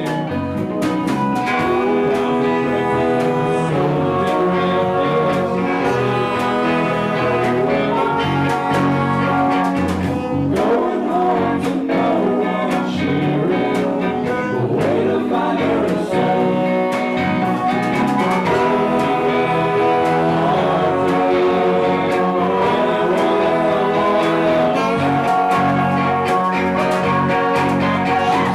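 Live band playing a song, guitar to the fore, with a voice singing.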